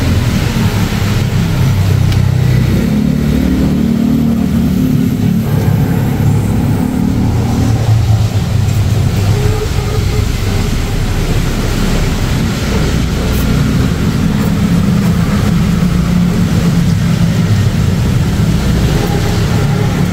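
Car engine running with a low rumble whose pitch rises and falls every few seconds.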